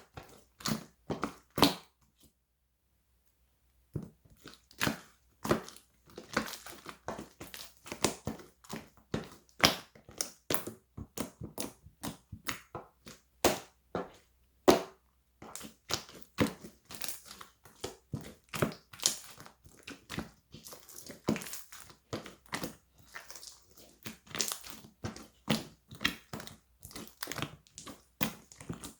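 Clear slime being squeezed, folded and pressed by hand, giving an irregular run of wet clicks and pops. It falls silent for about two seconds near the start.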